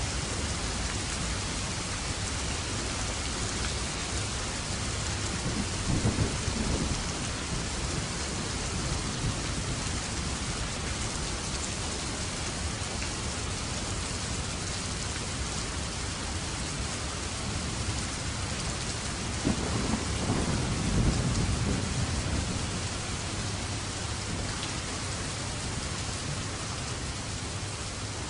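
Steady heavy rain falling, with two low rolls of thunder, one about six seconds in and a longer, louder one a little past the middle.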